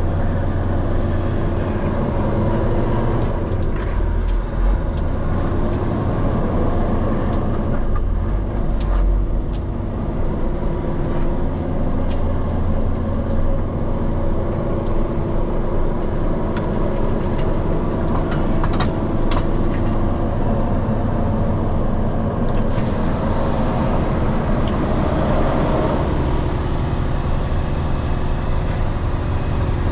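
Heavy diesel truck engine running steadily, with a few short clicks and knocks over it.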